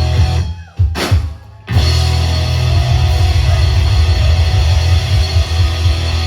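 Live punk rock band playing electric guitars and drums. A little under a second in the band drops out briefly around a single sharp hit, then comes back in at full volume and keeps going.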